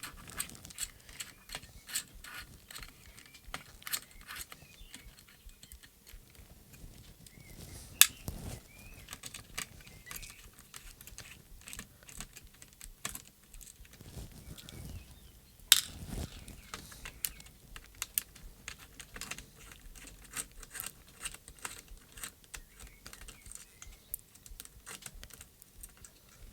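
Irregular light clicks and taps of small screws, a screwdriver and plastic parts being handled while a RadioMaster Zorro radio-control transmitter is taken apart. Two louder, sharper knocks come about 8 and 16 seconds in.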